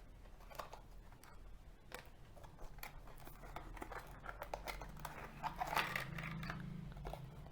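Faint clicks, crinkles and scrapes of earphone packaging being opened and handled: cardboard box and plastic inner tray. A louder stretch of rustling with a low hum comes about two-thirds of the way in.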